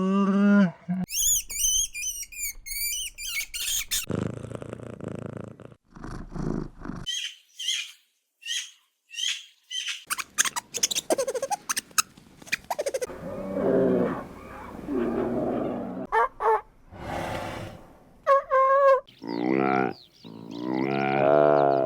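A run of short, varied wild animal calls with abrupt breaks between them: high chirping bird calls early on, rapid clicking trills in the middle, and pitched calls that bend up and down near the end.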